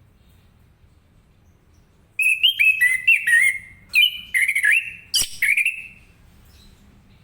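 Orange-headed thrush (anis kembang) singing: a burst of loud, rapid, sweeping whistled phrases lasting about four seconds, beginning about two seconds in, with one sharp click in the middle of it.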